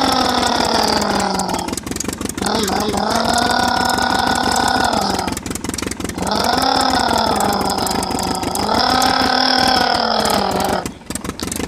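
Electronic engine sound from a toy truck's speaker: a buzzy pitched tone that dips in pitch at the start of each phrase and repeats about every two and a half seconds.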